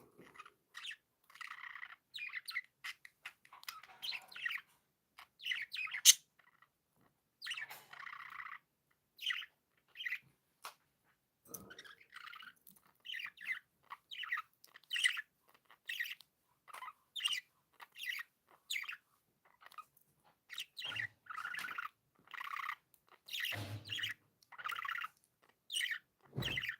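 Pet budgerigars chirping and warbling: a steady string of short high chirps with a few longer chattering stretches.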